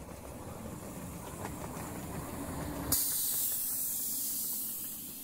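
Miniature 7.5-inch-gauge live steam locomotive running with a low rumble. About three seconds in, a sudden loud hiss of escaping steam starts, carries on and slowly fades.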